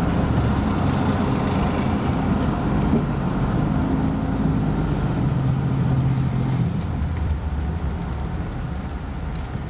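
Steady road and engine noise of a vehicle driving, a low rumble with a held engine hum.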